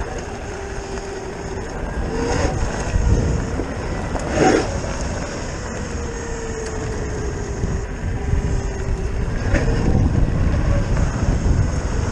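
Zero FX electric motorcycle's motor whining as it is ridden, the pitch easing up and down with speed, over wind buffeting the microphone and the rumble of tyres on the road. A short louder burst comes about four and a half seconds in.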